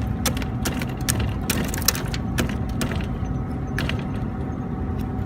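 Ice being pried and chipped off a frozen refrigeration condensing unit: irregular sharp cracks and clicks, thickest in the first two seconds, over a steady low hum.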